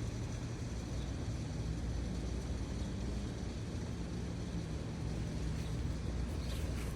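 Steady low outdoor rumble, with a faint low hum in the middle and a few faint ticks near the end.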